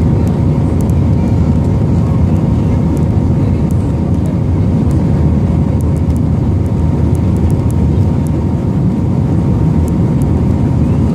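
Airbus A320 passenger-cabin noise in flight: a steady low rumble of engines and rushing air with a faint steady whine over it.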